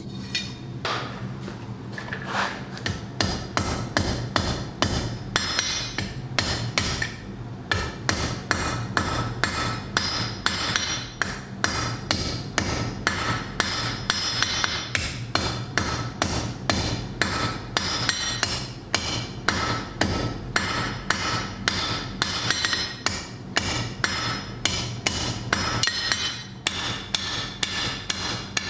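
Blacksmith's hand hammer striking hot flat steel bar on an anvil, a steady run of blows about two to three a second, each with a short metallic ring. A steady low hum runs underneath.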